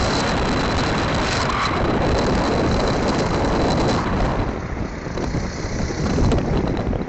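Wind noise on the microphone and road noise from a moving motorcycle, a dense, steady rush that eases off for a few seconds in the second half.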